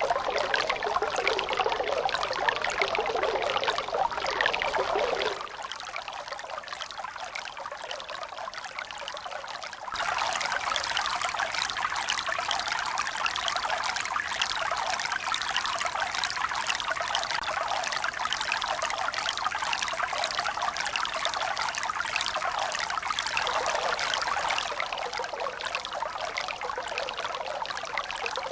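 Running water pouring and trickling steadily. The sound changes abruptly several times: quieter about five seconds in, suddenly louder and brighter at about ten seconds, and softer again near the end.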